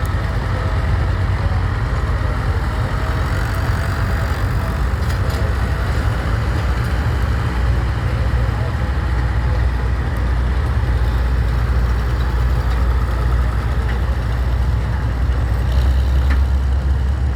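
Farm tractor engine running steadily, a continuous low rumble that grows a little louder near the end.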